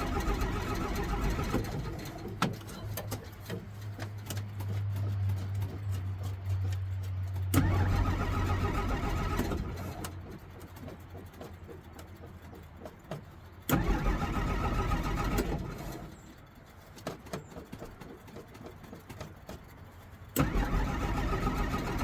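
1963 Jeep Gladiator engine cranking and briefly catching, then dying: it is running when the clip opens and fades out, then three more attempts come about six seconds apart, each starting suddenly. The first two die away within a few seconds; the last is still going at the end. A hard-starting engine that won't stay running on a weak battery.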